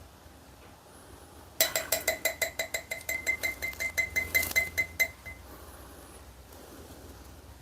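A rapid run of ringing, bell-like clinks, about seven a second, starting near two seconds in and stopping abruptly some three and a half seconds later.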